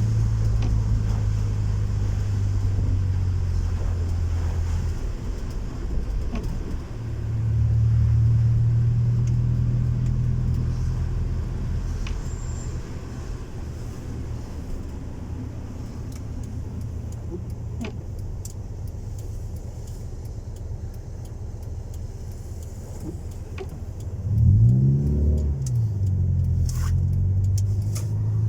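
Honda Civic 1.4i S four-cylinder engine with a custom-made exhaust, idling steadily. About three quarters of the way in, a quick throttle blip makes the note rise and fall back, and another rev begins near the end.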